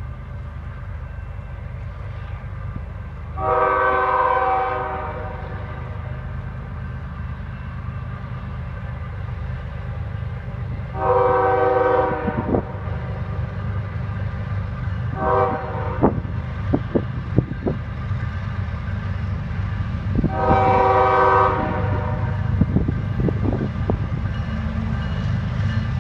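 Diesel freight locomotive horn sounding the grade-crossing signal, long, long, short, long, over the steady rumble of the locomotive engines. Sharp clicks follow the short blast and the last long blast, as the train comes closer.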